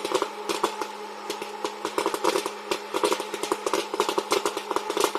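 Popcorn popping fast, with many sharp, irregular pops over a steady machine hum.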